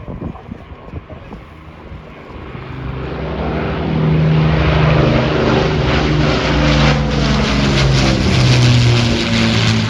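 Propeller aircraft flying past at an air display, its engine drone growing steadily louder over the first few seconds and then holding loud, with a low, even hum of propeller tones.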